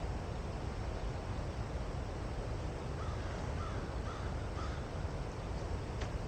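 A crow cawing faintly a few times, about halfway through, over a steady rushing background with low rumble. A single sharp click near the end.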